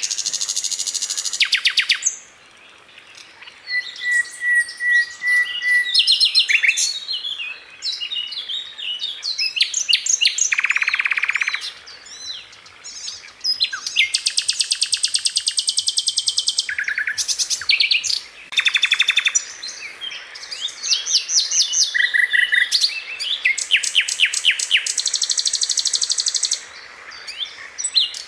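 Sikatan Londo flycatcher singing: a continuous string of fast, tightly packed trills and chattering note-runs, broken by short pauses. A brief steady whistle comes a few seconds in, and long rapid runs of repeated notes come about halfway through and again near the end.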